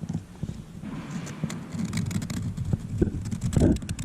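Irregular light clicks and scrapes of a popsicle stick working thickened resin paste into a radius along an inside corner and cleaning it off the sides.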